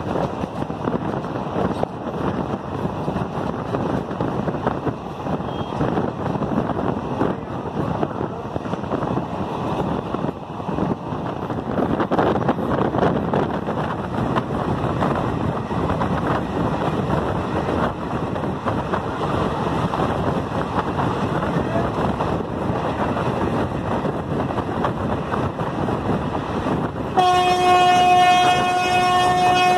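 Steady rumble and rush of a train running, heard from on board. About 27 seconds in, a train horn sounds one long steady blast that lasts to the end.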